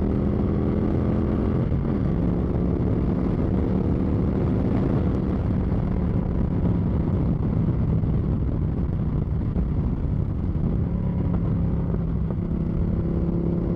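Motorcycle engine running steadily at cruising speed, with heavy low rumble from wind on the microphone; the engine note shifts briefly about two seconds in.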